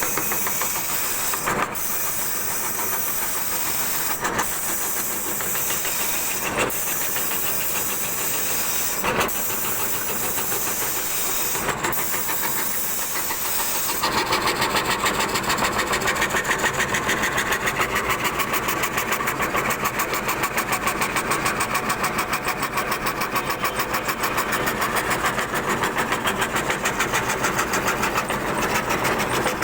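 CNC router spindle cutting a jali fretwork pattern into wood. For the first half it is a steady high hiss with a sharp tick every couple of seconds; about halfway through it changes to a louder, rapidly pulsing cutting sound.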